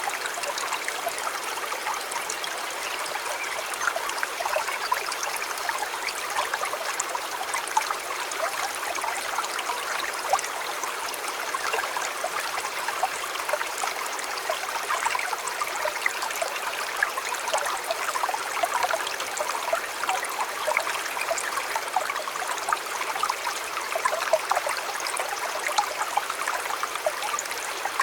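River water flowing and babbling steadily over stones, a constant rush with many small splashes and trickles.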